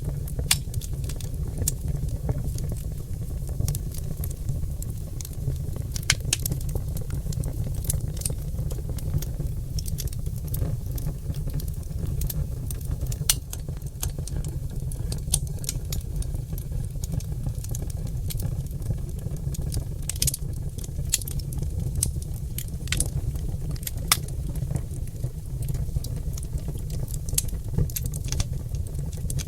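Oak log fire in a fireplace crackling and popping: irregular sharp snaps, a few louder pops among them, over a steady low rumble of the burning fire.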